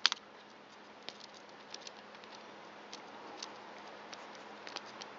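Light, scattered clicks and taps of small carburetor parts being handled, over a faint steady hiss.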